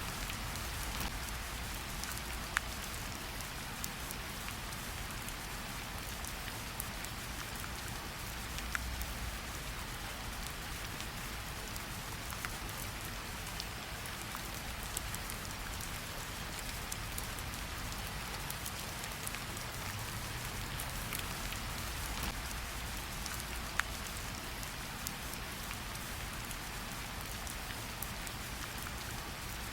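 Steady rainfall, with scattered single drops ticking sharply now and then and a faint low rumble underneath.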